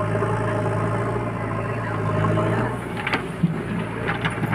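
A heavy machine's diesel engine runs steadily. About two and a half seconds in its note changes, and a few short knocks follow near the end.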